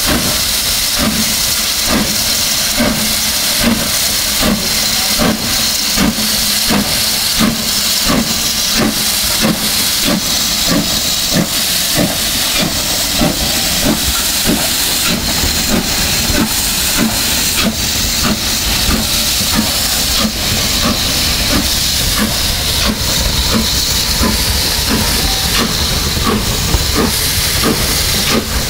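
Steam locomotive working, its exhaust beating in a regular chuff about twice a second over a constant hiss of steam, with a deeper rumble building in the second half.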